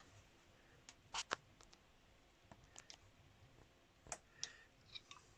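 A handful of faint, sharp metallic clicks at irregular intervals as hand tools, the valve spring and its collets are worked into place on the engine's cylinder head.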